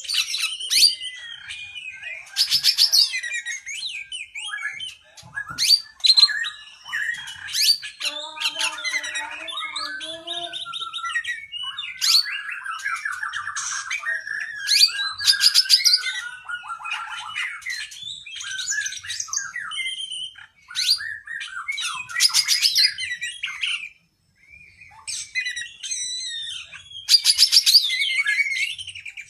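Oriental magpie-robin (kacer) singing a long, varied song of rapid trills, gliding whistles and harsher notes strung together with little pause, broken by a short gap about three-quarters of the way through.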